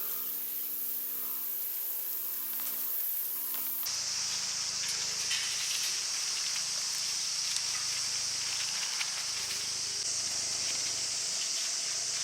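Outdoor ambience dominated by a steady high-pitched hiss, which shifts abruptly about four seconds in. In the first few seconds there is also a low hum whose pitch wavers.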